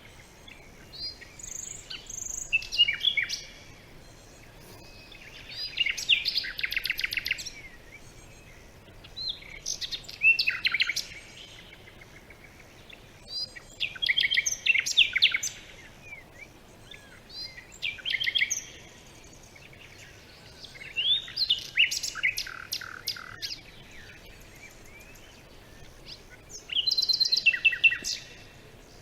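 A songbird singing: short phrases of high chirps and rapid trills, about seven of them, one every four seconds or so, over a faint steady background hiss.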